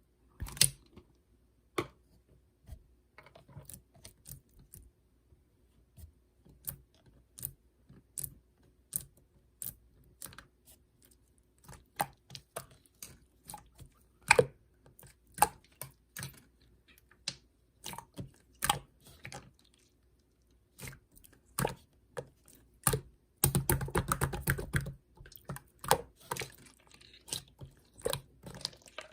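Slime being pressed and poked by hand, giving irregular sharp clicks and small pops from trapped air. Near the end comes a dense run of crackles lasting about a second and a half.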